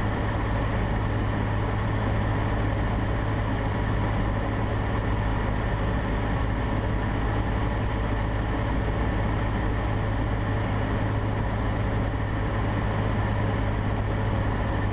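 Cessna 150's Continental O-200 four-cylinder engine and propeller running steadily on approach to land, heard from inside the cabin as a constant drone.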